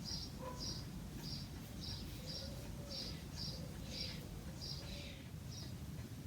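A small bird chirping over and over, short high chirps about twice a second at uneven spacing, over a steady low background rumble.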